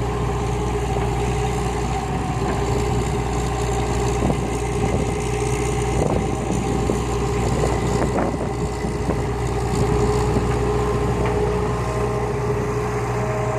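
Heavy diesel engines of a Hitachi excavator and a dump truck running steadily, with a few short knocks about six and eight seconds in.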